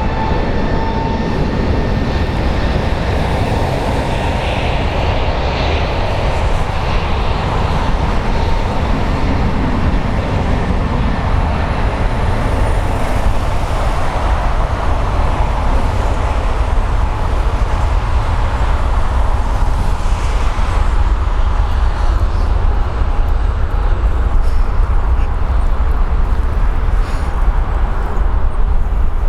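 Jet airliner, an Airbus A321neo, taking off: a loud, steady engine rumble at takeoff thrust with a high whine that fades over the first half.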